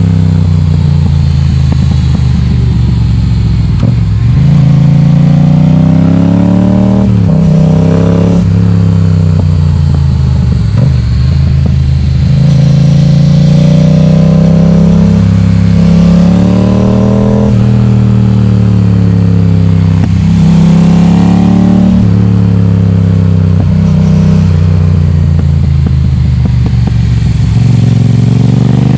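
Yamaha XSR700's 689 cc parallel-twin running loud through an Akrapovic exhaust with its baffle removed. The revs climb again and again over a few seconds, each climb ending in a sharp drop, as the bike is ridden through the gears.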